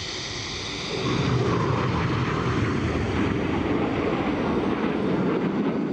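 BAE Hawk T1 jet aircraft passing with a loud, rumbling jet roar that swells about a second in and holds.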